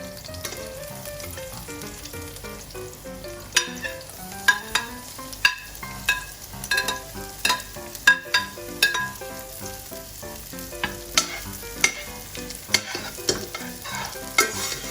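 Onion and garlic sizzling in oil in a pan over low heat while a spatula stirs, knocking against the pan every second or so from a few seconds in.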